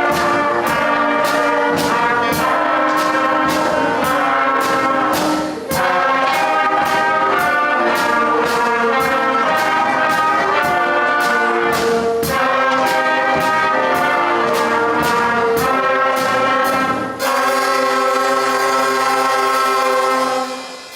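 Student concert band of brass, woodwinds and percussion playing a piece over a steady drum beat, closing with a long held final chord that fades away near the end.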